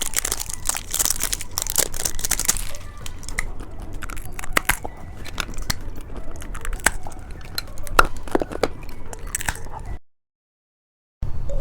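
Candy being crunched and chewed close to the microphone: a dense crackle for the first couple of seconds, then a run of separate sharp crunches. The sound drops out completely for about a second near the end.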